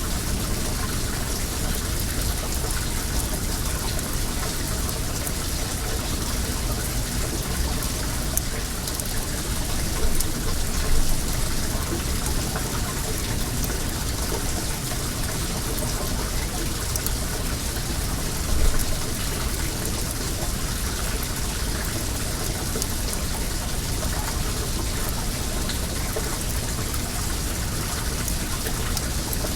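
Well water running and splashing steadily, with a bonfire crackling over it and a couple of brief louder knocks about ten and eighteen seconds in.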